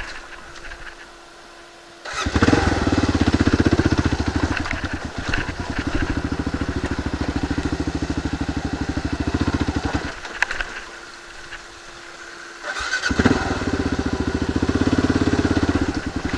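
Kawasaki KLR 650 single-cylinder engine running under throttle. It comes in loud a couple of seconds in, drops back for a few seconds past the middle, then picks up again near the end.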